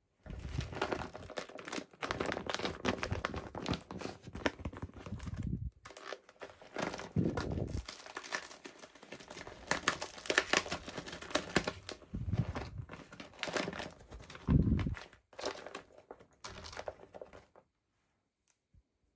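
Packaging crinkling and tearing as a toy box is unwrapped by hand, in a dense run of crackles with short pauses, stopping a couple of seconds before the end.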